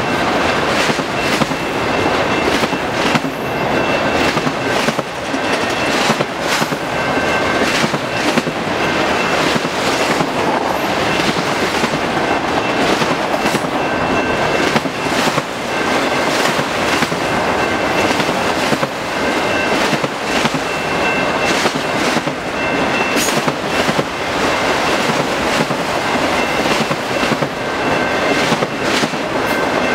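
Autorack freight cars passing close by at speed: a steady, loud rumble and rattle, with the clickety-clack of wheels striking rail joints. A faint high steady tone comes and goes in stretches.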